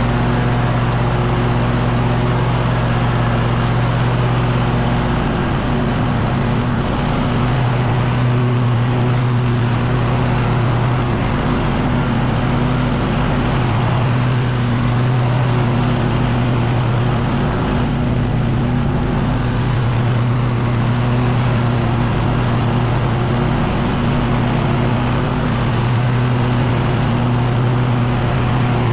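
Small gas engine of outdoor power equipment running steadily at high speed over a rushing noise; its low note shifts about five seconds in and then holds steady.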